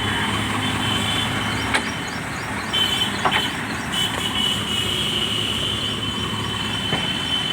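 Heavy diesel engine running steadily at a low pitch, with two sharp knocks and a thin high whine that drops out and comes back.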